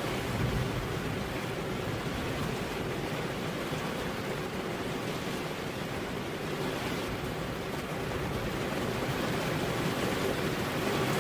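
Steady rain falling, a dense even hiss with no distinct drops standing out.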